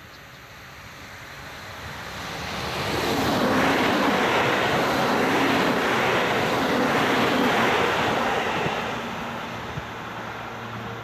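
JR East E127 series electric multiple-unit local train passing at speed: the rush of its wheels on the rails builds over about two seconds, stays loud for about five, then fades as the train runs away.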